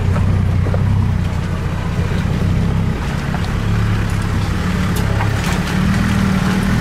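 Land Rover Defender engine running at low revs as the 4x4 crawls down a rocky lane, its pitch rising and dropping a few times, with a few sharp clicks and knocks.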